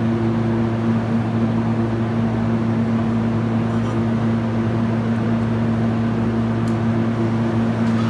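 Steady, even mechanical hum with a low droning tone, with one faint click near the end.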